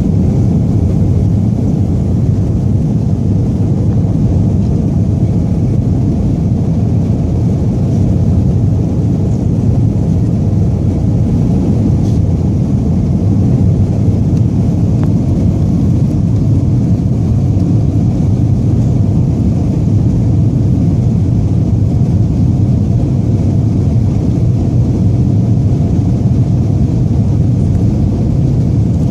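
Jet airliner's engines at takeoff power, heard from inside the passenger cabin as a loud, steady, deep noise. The airliner is an Air Seoul Airbus A321.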